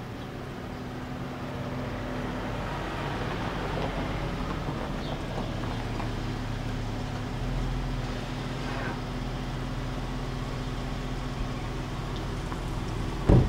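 Hyundai Azera sedan's engine running steadily with a low hum as the car rolls in over gravel and idles, then a single loud thump near the end.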